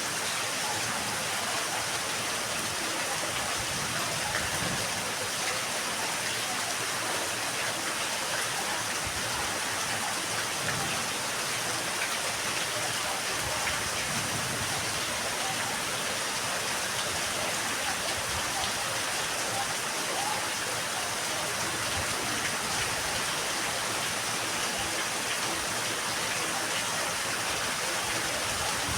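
Steady rain falling on a yard: an even, unbroken hiss of drops.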